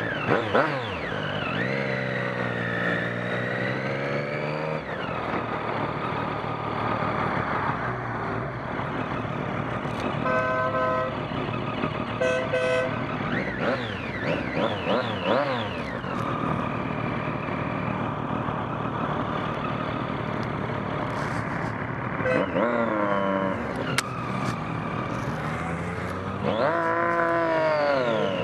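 Vehicle engine running with its revs rising and falling several times, with two short horn toots about ten and twelve seconds in.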